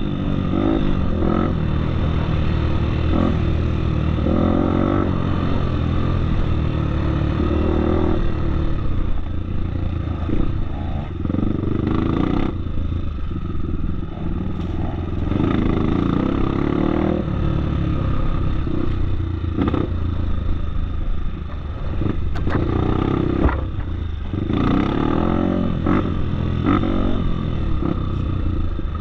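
Off-road motorcycle engine running under load on a dirt trail, its revs rising and falling again and again as the throttle is worked, with rattling clatter from the bike.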